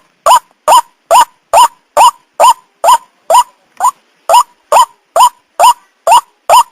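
White-breasted waterhen (burung ruak-ruak) calling: a short, harsh note rising in pitch, repeated evenly a little over twice a second.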